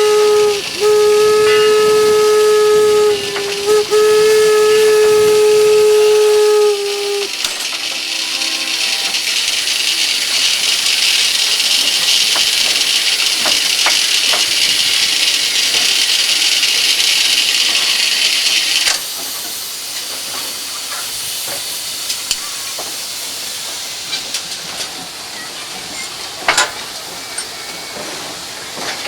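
A narrow-gauge 4-4-0 steam locomotive's whistle blows a steady single note in several blasts with short breaks, ending about seven seconds in. Loud hissing steam follows and drops sharply around nineteen seconds in, leaving a softer hiss with scattered clicks.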